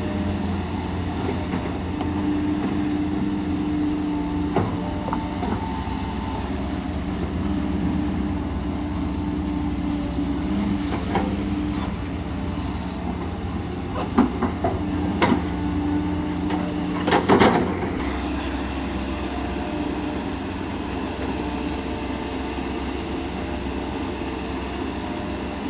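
Kobelco SK140 excavator's diesel engine running under load with a steady hum while digging. Several sharp clanks come through, bunched between about 14 and 17 seconds in, and the engine's low rumble eases off about 18 seconds in.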